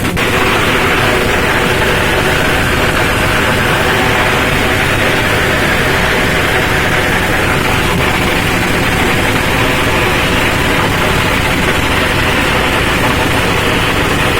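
Boat engine running steadily under a loud, even hiss that starts abruptly and holds without change.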